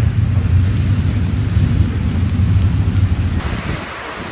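Intermodal freight train rolling past with a heavy low rumble, in steady rain. The rumble drops away suddenly about three and a half seconds in, leaving the hiss of rain.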